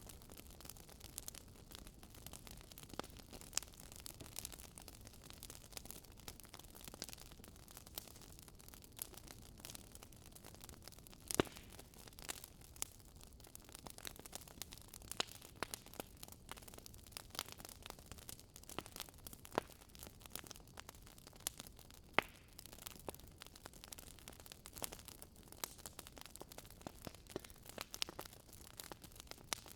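Wood fire crackling: burning logs give off irregular sharp snaps and pops over a faint hiss, with two louder pops about eleven and twenty-two seconds in.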